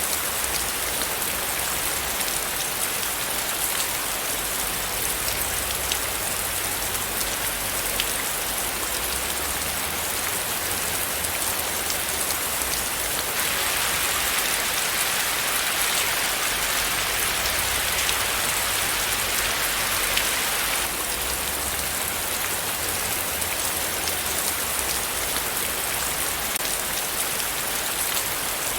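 Steady rain falling on a surface: an even hiss flecked with individual drop ticks. It grows slightly heavier and louder for several seconds around the middle, then settles back.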